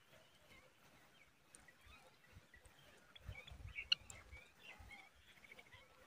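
Quiet outdoor background with faint, scattered high bird chirps, growing busier in the second half into a quick run of chirps near the end. A sharp click comes about four seconds in, and there is some low rumbling just before it.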